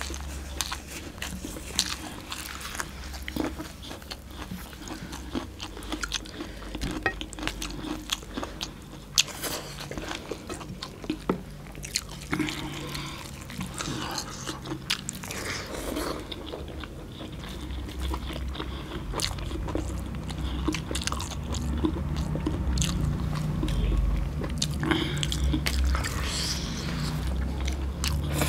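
Two people chewing and lip-smacking as they eat mutton, rice and curry by hand: a dense, irregular run of short wet mouth clicks.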